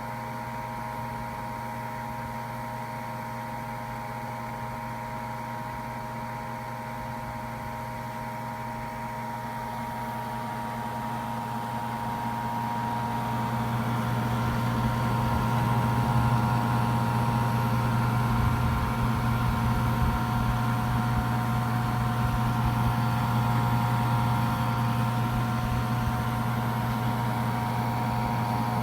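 Fan of a Gigabyte GeForce GTX 970 Twin Turbo OC graphics card buzzing under benchmark load: a steady low buzz with several steady whining tones above it. It grows louder from about ten to fifteen seconds in, then holds. This annoying buzz is typical of this card's bi-directional fan.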